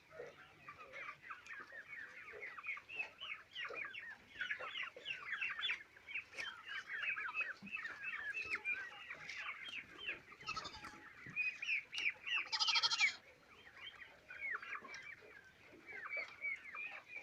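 A flock of layer pullets cheeping and clucking: many short, high calls overlapping without a break. Two louder, harsher calls stand out near the middle.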